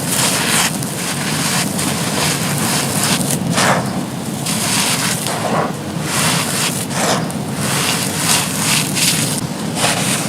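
Soft, dusty charcoal-ash bricks being crumbled and crushed: a continuous gritty crunching broken by many small sharp cracks.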